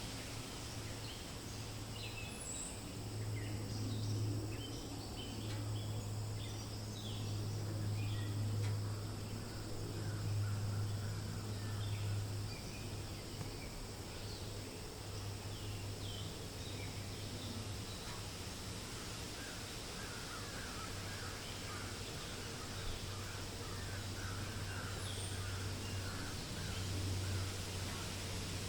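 Forest ambience: wild birds calling with many short chirps, and a run of quick repeated notes in the second half, over a steady low rumble of wind.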